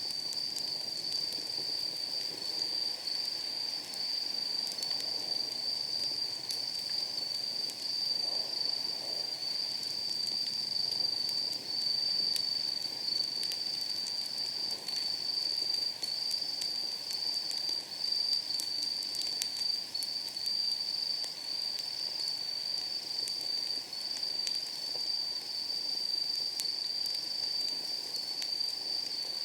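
Insects chirring in a steady high-pitched chorus, with a slight pulsing, over sparse small crackles and pops of firewood burning in a steel fire pit.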